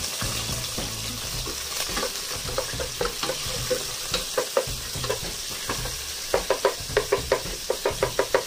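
Chopped garlic and red onion sizzling in hot oil in a pot as they are sautéed, with a spatula scraping and knocking against the pot as it stirs. The stirring strokes come quicker and louder in the last couple of seconds.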